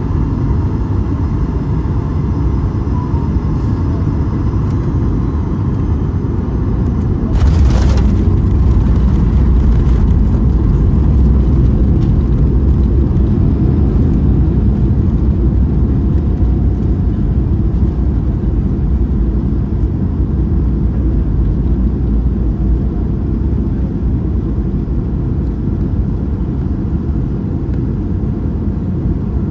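Cabin noise of a Boeing 737 MAX 8 airliner: a steady low rumble, broken about seven seconds in by a short jolt. After the jolt a louder rumble follows that slowly eases, which fits a firm touchdown on a wet runway and the rollout.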